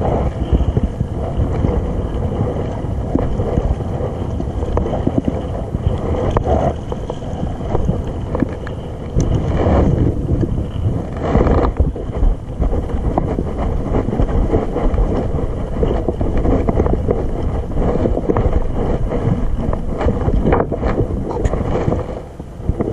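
Wind rumbling on the microphone while out on a kayak at sea, a steady low noise with louder gusts or splashes about ten and eleven and a half seconds in.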